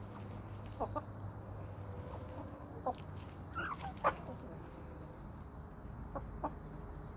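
Domestic chickens clucking softly now and then, with a few short sharp taps mixed in, over a steady low hum.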